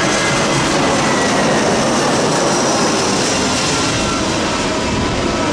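Jet airliner's engines during landing: a loud, steady rush with faint high whining tones running through it.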